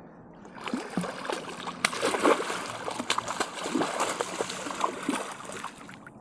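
A hooked catfish thrashing and splashing at the water's surface beside the boat, starting about half a second in and dying down near the end.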